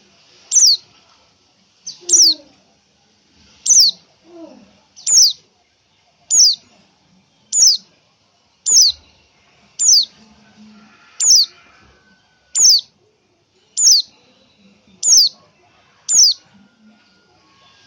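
Female white-eye (pleci) giving a short, high-pitched call that falls in pitch, repeated at an even pace of about one call every second and a quarter. It is the female's call used to draw males.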